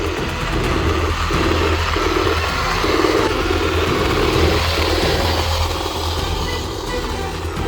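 Radio-controlled model construction machinery running: electric motors and gearing whir in short stop-start bursts over a steady low hum.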